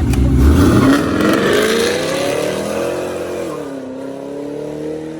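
Vehicle engine accelerating: its pitch climbs for a couple of seconds, drops about three and a half seconds in as it shifts gear, then holds steady.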